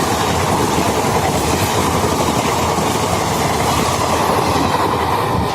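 Passenger train coaches of an express running past at speed: a loud, steady rumble with the clatter of wheels over the rail joints.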